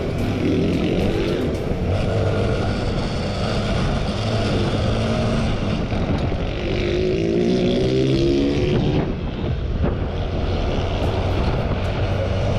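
Motorcycle engine running under way over heavy wind rush, its pitch climbing as it revs up between about six and nine seconds in.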